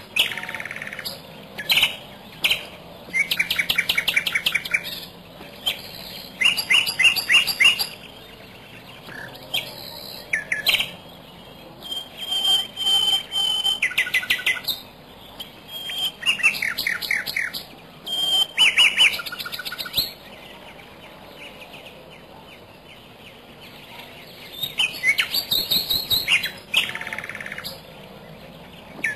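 Bird calls in repeated bursts of rapid, high chirping notes, each burst lasting one to two seconds, with short pauses between and a quieter spell of a few seconds past the middle.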